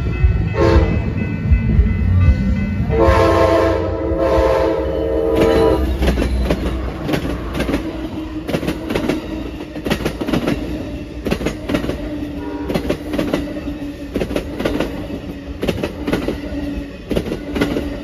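Amtrak passenger train sounding its horn as it passes: a short blast about half a second in, then a longer blast from about three seconds. After that comes a rapid clickety-clack of the wheels over the rail joints.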